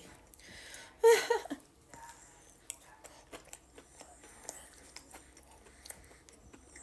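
A short vocal sound about a second in, then quiet chewing of a soft sandwich bun with small wet mouth clicks.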